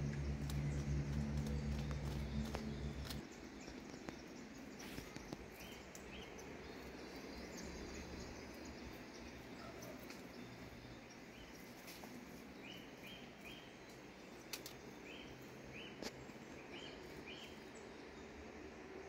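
Faint, short, high-pitched calls of a Spix's spinetail (João-teneném), in groups of two or three notes, heard several times over steady outdoor background noise. A low steady hum, the loudest thing at the start, cuts off about three seconds in.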